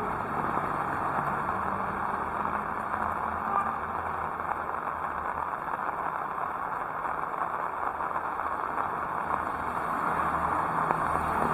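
Heavy rain falling, a steady continuous hiss.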